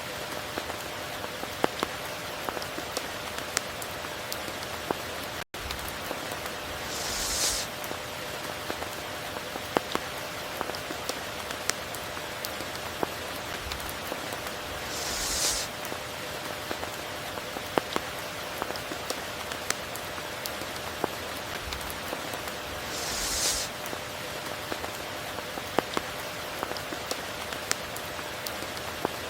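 Steady tropical rain falling, with many sharp drop hits over an even hiss and a brighter hissing swell about every eight seconds. The sound drops out for an instant about five seconds in.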